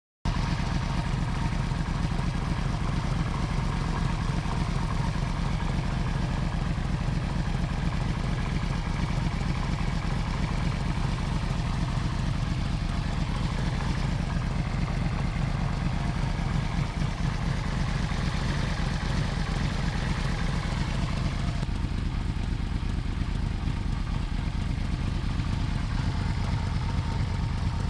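Yamaha VMax 1200's V4 engine running at a steady idle.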